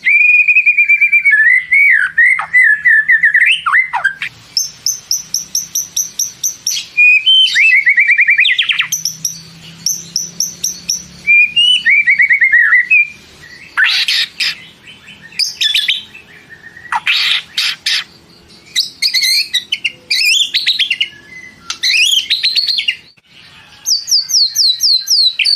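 White-rumped shama in full song: a long, varied run of clear whistles, fast strings of repeated notes and quick rising and falling sweeps, broken by short pauses between phrases.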